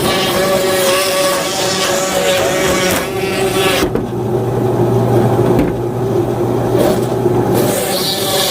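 A motor or engine running steadily with a continuous hum.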